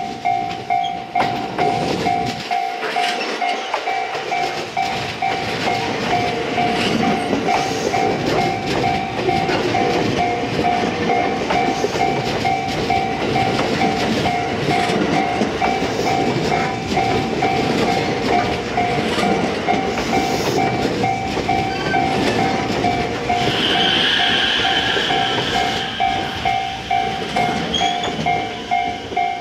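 JR West 227 series 'Red Wing' electric train passing close by, its wheels running and clicking over the rail joints, loudest as the cars go past. A level-crossing warning bell rings steadily about twice a second throughout, and a short high whine comes from the train near the end.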